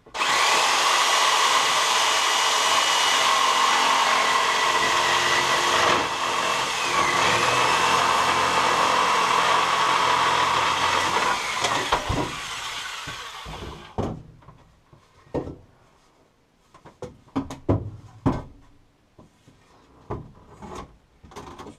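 Electric power tool running steadily with a motor whine, its pitch dipping briefly partway through, then winding down, followed by a series of sharp knocks and taps.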